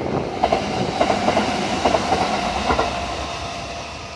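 Kintetsu electric commuter train passing close by, its wheels clacking over rail joints, with a steady whine underneath. The sound fades as the train pulls away in the last second or so.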